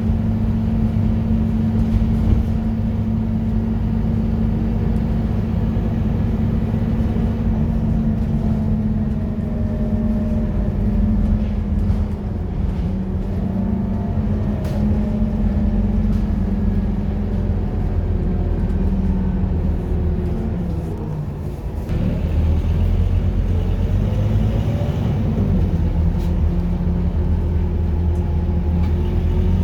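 Scania K230UB city bus's five-cylinder diesel engine running under way, its pitch rising and falling as the bus pulls away, gathers speed and eases off. About three quarters of the way through it briefly drops, then rises again.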